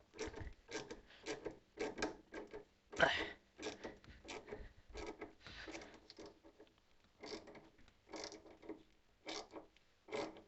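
Repeated short scraping and rubbing strokes, about two a second, from work on a front-loading washing machine while a new heating element is being fitted, with one louder knock about three seconds in.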